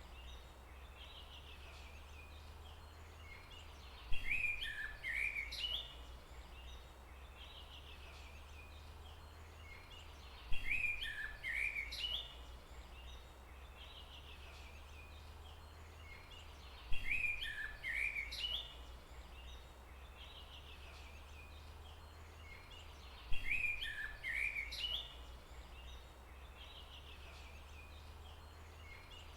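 A songbird's short chirping phrase, about two seconds long, repeating identically at even intervals of roughly six seconds, four times, over a steady low hum.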